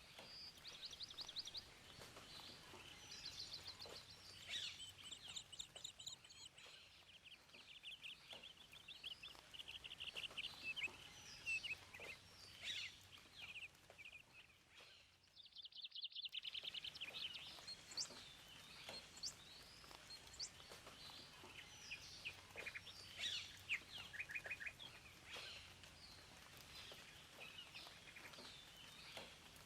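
Several songbirds singing and calling, with rapid trills and short chirps over a faint background hiss. The sound cuts out briefly about halfway through, then the birdsong resumes.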